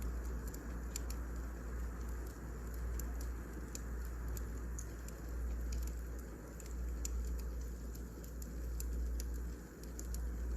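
Wood fire crackling: scattered, irregular sharp pops and snaps over a steady low rumble.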